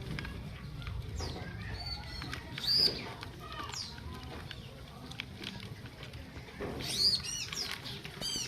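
Small aviary birds chirping and calling in short, quick notes, with two louder bursts of calls about three seconds in and about seven seconds in.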